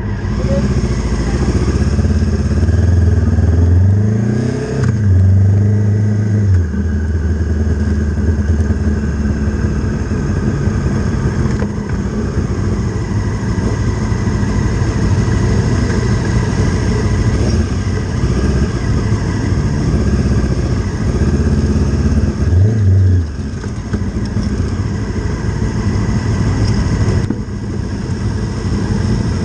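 Honda CB500 parallel-twin racing motorcycle engine running hard at track speed. The revs climb sharply about four seconds in and again near twenty-three seconds, dropping back after each climb.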